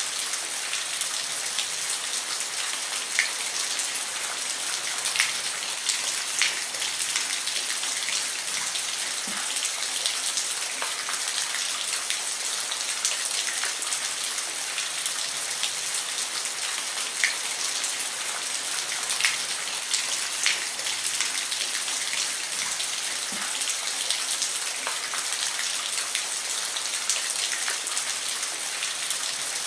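Steady rain falling on a roof, an even hiss with many individual drops ticking sharply on the surface.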